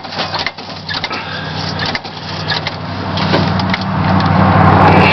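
Starter cranking the cold 305 small-block V8 of a 1977 Chevy C10 in 8 °F weather, the engine struggling to catch on a hard cold start. The sound grows steadily louder through the second half.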